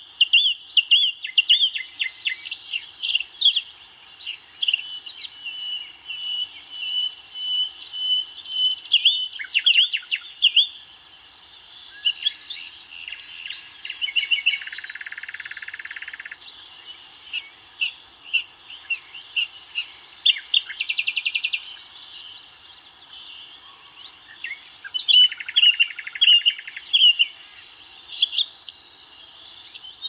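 Several songbirds singing and calling at once: overlapping chirps, whistles and rapid trills, with a buzzy trill about fifteen seconds in and another near twenty-one seconds.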